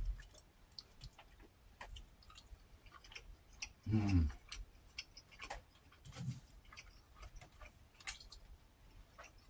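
Close-up chewing of fried fish: irregular wet mouth clicks and smacks. A short low burp about four seconds in, and a fainter low throaty sound a couple of seconds later.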